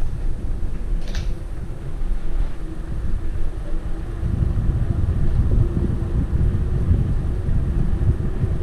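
Wind buffeting the microphone while riding a bicycle, a steady low rumble that wavers in strength, with a brief high hiss about a second in.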